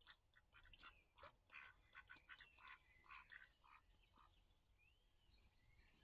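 Faint bird calls: a quick, uneven run of short chattering calls, with a couple of whistled notes that rise and fall near the middle.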